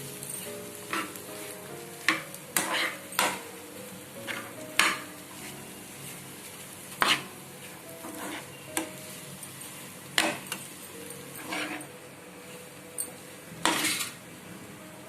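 Spoon stirring egg fry in a kadai, with about a dozen irregular scrapes and knocks against the pan over a faint sizzle of oil.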